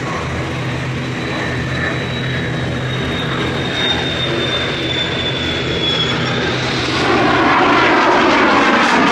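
F-16 fighter jet engine running through a flying display: a steady jet roar with a thin high whine that slides slightly down in pitch. About seven seconds in it swells louder into a rushing roar with a rippling, phasing quality as the jet passes.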